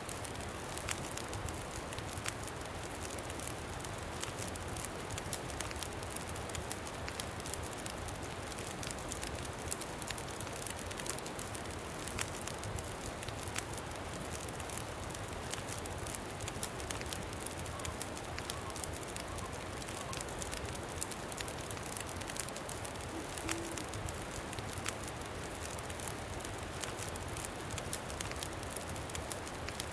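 Campfire crackling with frequent small, irregular pops over a steady rush of wind.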